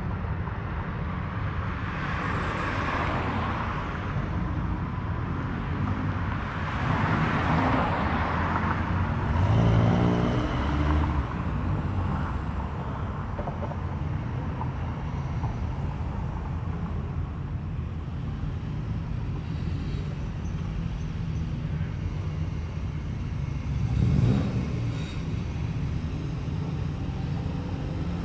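Cars driving slowly past one after another over a steady low engine rumble, each passing as a swell in the noise. About ten seconds in, one engine revs up briefly.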